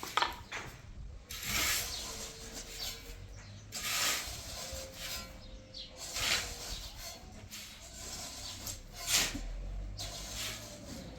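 Irregular scraping strokes, roughly one every second or two.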